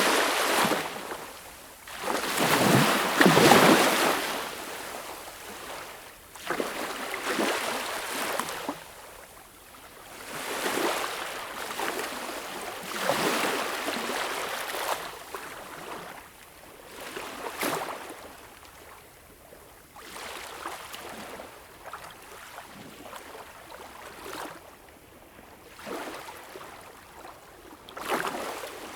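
Small waves breaking and washing up a beach shore, one after another, every two to four seconds. The first two, in the first four seconds, are the loudest.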